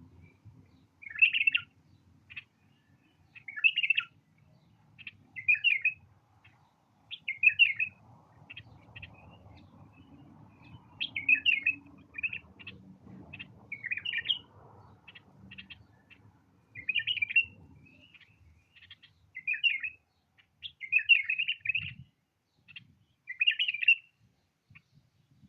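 White-eared bulbul singing short, repeated song phrases, about one every two seconds. A faint low rumble sits underneath through the middle of the stretch.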